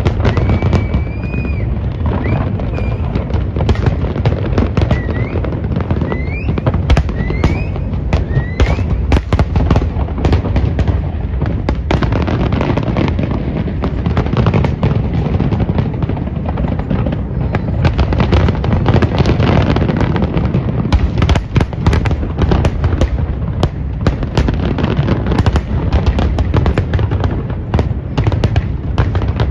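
Fireworks display: a dense, unbroken barrage of bangs and crackling, with several short rising whistles in the first several seconds.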